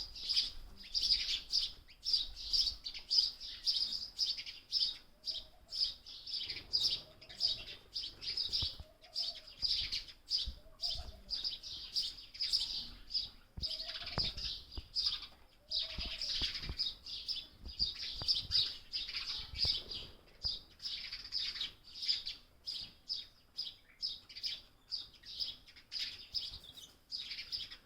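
Young sparrow chirping: short, high calls repeated a few times a second without a break.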